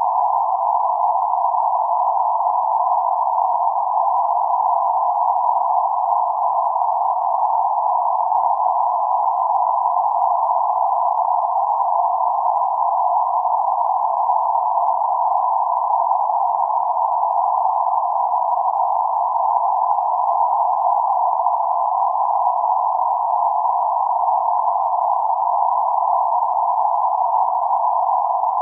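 Steady band-limited noise centred around 848 Hz: an even, mid-pitched hiss with nothing high or low in it, holding one constant level.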